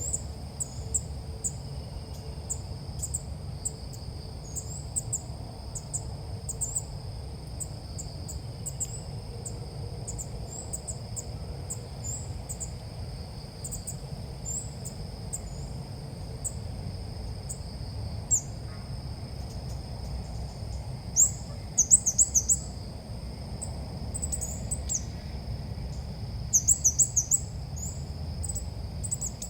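Sooty-headed bulbul calls: short, high chirps repeated throughout, with two quick runs of several notes in a row past the middle. Under them run a steady high drone and a low rumble.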